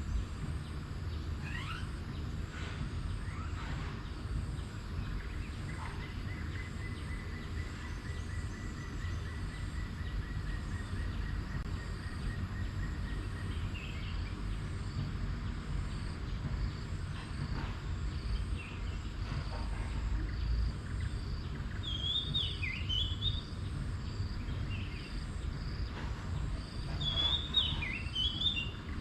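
Outdoor nature ambience with a steady low rumble underneath and a faint hum of insects, one holding a thin steady note for several seconds early on. Birds call twice in short bright phrases, about two-thirds of the way in and again near the end.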